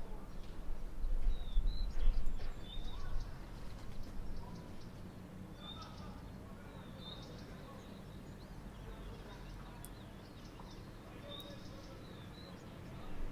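A small bird chirping repeatedly, short high chirps every second or two, over a low outdoor rumble that is louder for the first few seconds and then settles.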